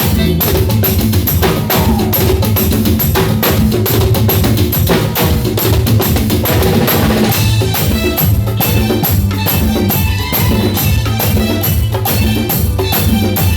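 Live band music with a busy, steady drum beat and percussion over a bass line.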